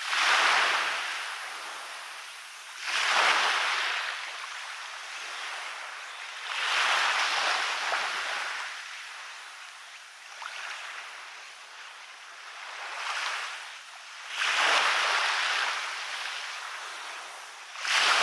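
Waves breaking on a beach: each one rushes in with a rising hiss, then washes back and fades, about every three to four seconds, with five or six breaks in all.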